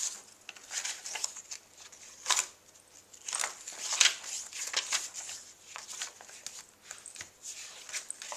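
Pages of a handmade paper journal being turned and handled, an irregular run of crisp rustles and flicks.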